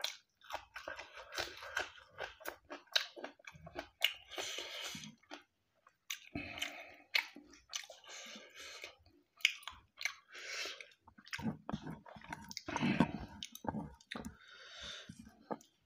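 Close-miked chewing of food, with crunching and wet mouth clicks and smacks in an irregular run, loudest about three quarters of the way through: a person eating rice, buffalo curry and raw green vegetables.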